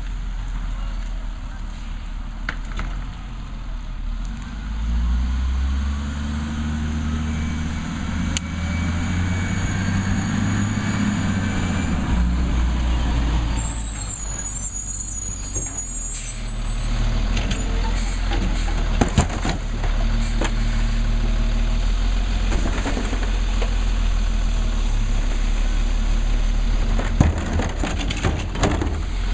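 Labrie Cool Hand garbage truck's diesel engine running and revving up, with a high air-brake hiss about halfway through and a few sharp knocks near the end.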